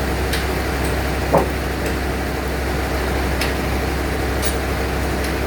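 Sawmill bandsaw machinery running steadily with a deep, even hum. A short, sharp sound stands out about a second in.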